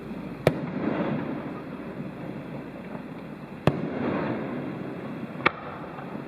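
Aerial fireworks shells bursting: three sharp bangs, the first about half a second in, the second just under four seconds in and the last near the end, each followed by a noisy tail lasting about a second.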